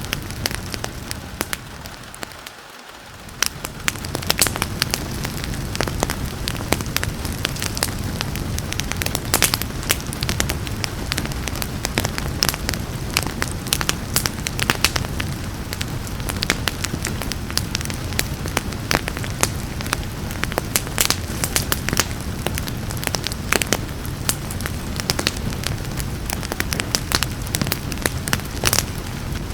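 Wood fire crackling with frequent sharp pops over a steady hiss of rain. The whole sound dips and fades back up about two to three seconds in.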